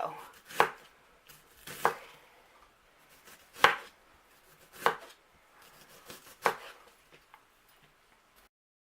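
Kitchen knife slicing an onion into thin julienne strips on a cutting board: five sharp knocks of the blade on the board, about a second or more apart, with a few fainter taps between them. The sound cuts off abruptly near the end.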